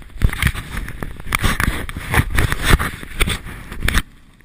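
Dog sled moving fast along a snow trail: irregular rushing, scraping and knocking that drops away suddenly about four seconds in.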